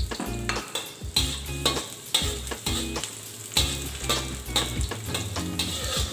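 Metal spatula scraping and stirring around a wok as chopped garlic and onion fry in oil, with a steady sizzle. Background music plays underneath.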